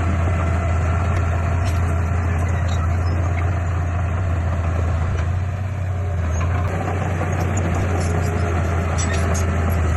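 Heavy diesel engine of earthmoving machinery running steadily with a deep, even drone, dipping slightly in level about five and a half seconds in.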